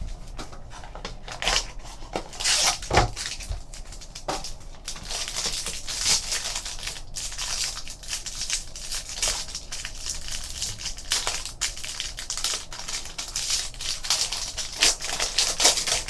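A trading card pack being opened by hand: the wrapper tearing and crinkling, then the cards being slid out and handled, a run of rustles and sharp crackles.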